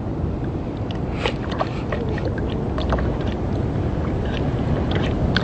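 Wind rumbling on the microphone outdoors, with faint scattered clicks.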